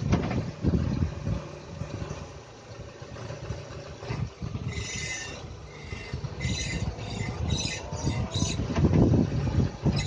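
Renault Duster's propeller shaft (cardan) squeaking in short high bursts over the low running rumble of the car, once about halfway through and then several times in quick succession near the end. The owner takes it for a squeaking cardan at 63,000 km.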